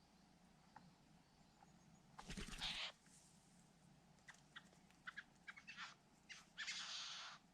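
Satin bowerbirds making harsh, rasping sounds: a loud scratchy burst about two seconds in, a run of short clicks, then a longer rasp near the end.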